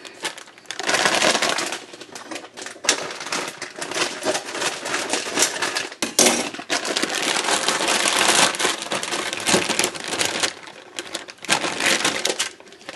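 Packaging crinkling and halved Brussels sprouts tumbling out onto a cookie sheet: a dense, irregular run of crackles and small clicks, with short lulls about six seconds in and near the end.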